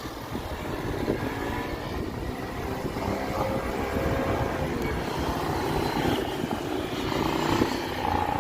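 Wind buffeting the microphone while cycling, with a motor vehicle's engine droning past from about three seconds in.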